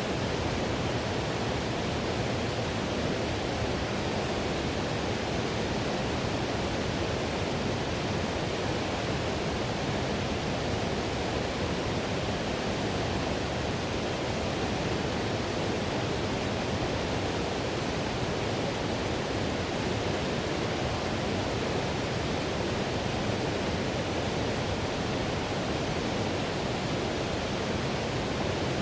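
Whitewater river rushing over rocks: a steady, even roar of water that does not change.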